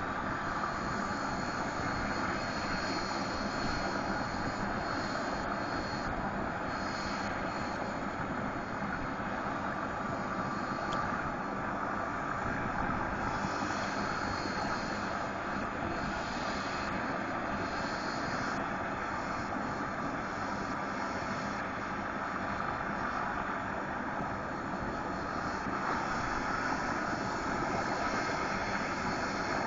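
Medical transport helicopter's turbine engine and rotor running steadily, a constant rushing noise with a faint steady high whine.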